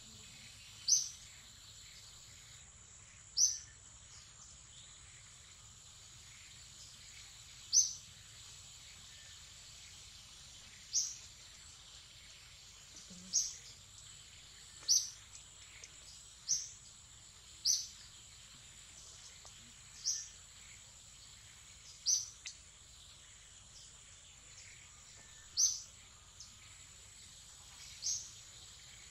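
A bird calling with single short, high chirps, about a dozen at uneven gaps of one to four seconds, over a steady high-pitched insect drone.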